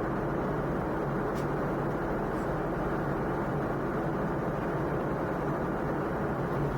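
Steady cabin noise inside a Boeing 717 airliner in flight: the even rush of airflow and the hum of its rear-mounted Rolls-Royce BR715 turbofan engines.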